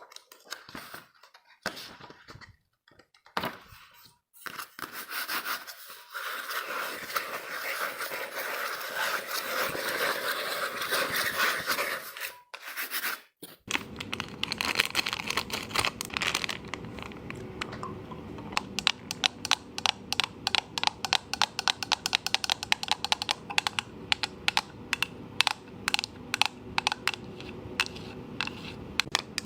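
Close-miked ASMR trigger sounds from objects being handled. A few scattered clicks give way to a steady rustling that lasts several seconds. After an abrupt cut comes a fast, irregular run of sharp taps and clicks, several a second.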